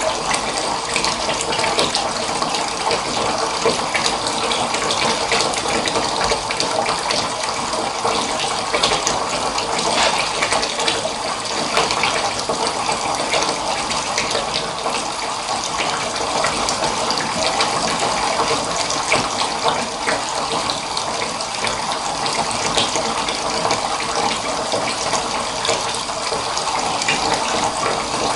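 Water running steadily from a tap into a bath, with a continuous splashing rush.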